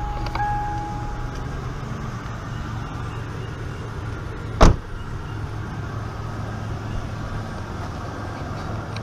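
Toyota Tacoma pickup engine idling steadily just after a start, its level easing down over the first couple of seconds. A steady electronic chime tone sounds for the first second or so, and a single loud thump lands about halfway through.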